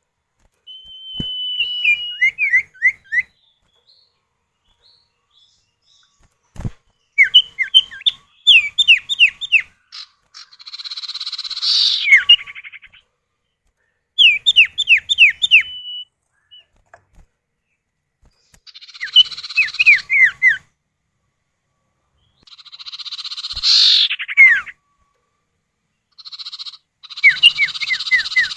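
Common iora (cipoh) male and female calling back and forth. Bouts of quick descending whistled notes alternate with harsh buzzy rasps, with one long held whistle early on and short pauses between bouts.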